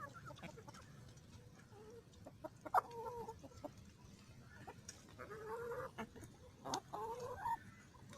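Domestic hens feeding on dumped kitchen scraps, giving short pitched clucking calls three or four times over the few seconds, with faint scattered ticks between them.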